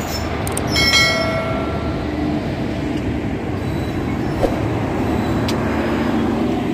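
Locomotive and coaches of an Indian Railways express train rolling past close by: a steady rumble of wheels on rail, with a brief high-pitched tone about a second in.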